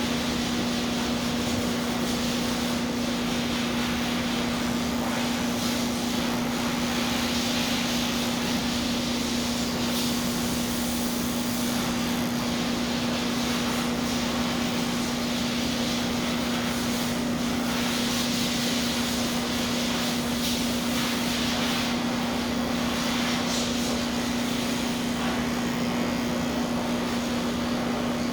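Electric pet clippers running steadily while shaving a cat: one constant hum, with a higher hiss above it that grows and fades every few seconds.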